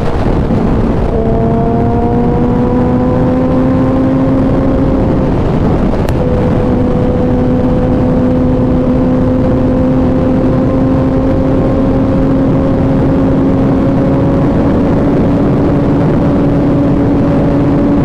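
Kawasaki ZX-10R inline-four engine under way, its note climbing slowly as the bike gathers speed, with two short breaks where the pitch resumes a little lower (upshifts), about a second in and around six seconds in. Heavy wind rush runs under it.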